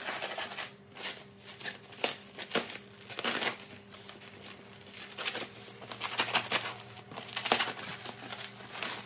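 Parcel packaging being opened by hand: irregular crinkling and rustling of the wrapping, with sharper crackles now and then.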